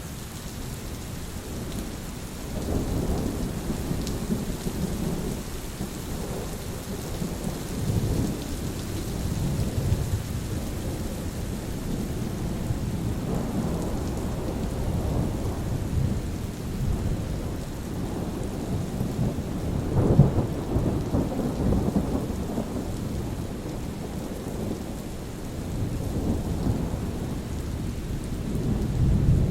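Steady rain with low thunder rumbling on and off, swelling several times; the loudest rumble comes about two-thirds of the way through.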